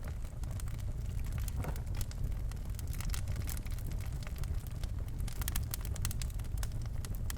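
Birch logs burning in a fireplace: irregular sharp crackles and pops over a steady low rumble, with a denser run of crackling past the middle.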